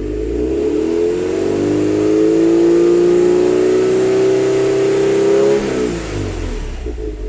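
Subaru WRX turbocharged flat-four revved through its stock exhaust with a muffler cutter: the engine note climbs from about half a second in, is held high and slowly rising, then drops sharply back to idle near the end.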